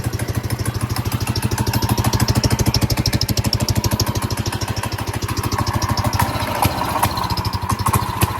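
Predator 212cc single-cylinder four-stroke go-kart engine with a stage one kit, running loudly with steady, fast firing pulses and its speed wavering slightly in the second half. The choke has been left on rather than set to run.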